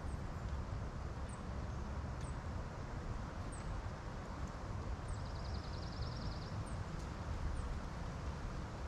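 Wind buffeting the microphone, a steady low rumble. A short, rapid high-pitched ticking comes in about five seconds in and lasts under two seconds.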